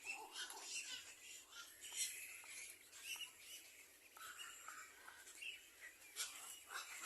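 Small birds giving soft, short chirps at a nest, with scattered rustling and light clicks.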